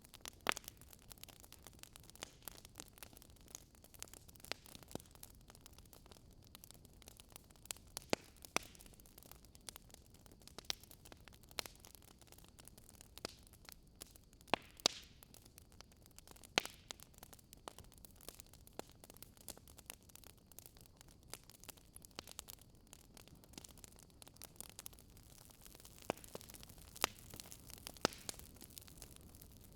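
Wood fire crackling in a fireplace: irregular sharp pops and snaps, some louder, over a soft steady hiss.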